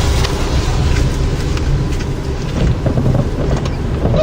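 Gusty storm wind buffeting the microphone: a loud, continuous, choppy low rumble.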